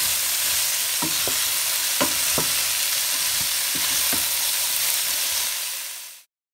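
Potato and cauliflower pieces sizzling as they fry in a pan, stirred with a wooden spatula that knocks and scrapes against the pan every half second or so. The sizzle fades out near the end.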